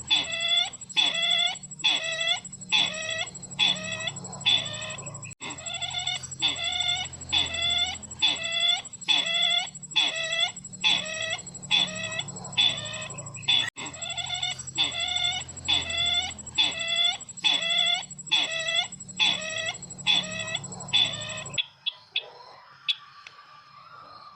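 Recorded sisintar ladang bird call played as a trapping lure: the same short ringing note repeats about twice a second, with two brief breaks where the recording loops. It stops about 21 seconds in.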